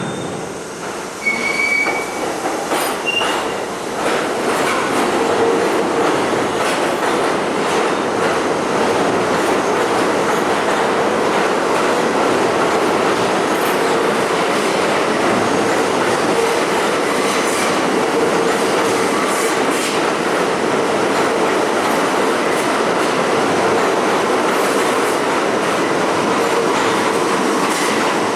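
New York City subway trains running through an underground station, one of them a departing R32 J train: a steady rumble of steel wheels on rail with clacking over the rail joints. A few brief, high wheel squeals come in the first few seconds, and the noise builds to full strength by about four seconds in, then holds.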